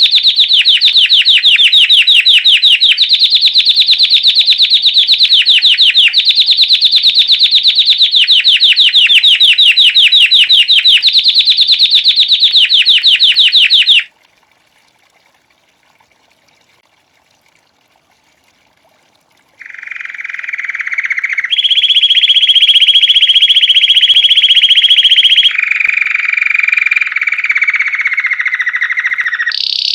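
Domestic canary singing a fast trill of rapidly repeated high notes in phrases of two to three seconds, cutting off abruptly about halfway through. After a few seconds of quiet, the song resumes with lower, steady rolled notes that change pitch every few seconds.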